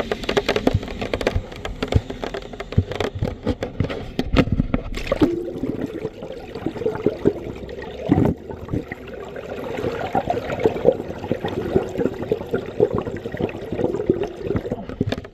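Water splashing and sloshing, most likely feet wading through shallow floodwater from rain runoff, with many irregular knocks and scrapes and a louder splash about 8 seconds in.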